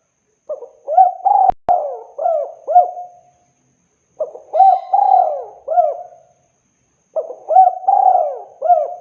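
Spotted dove (tekukur) cooing: three phrases of several short arched coos each, with brief pauses between the phrases. Two sharp clicks come in quick succession about one and a half seconds in, during the first phrase.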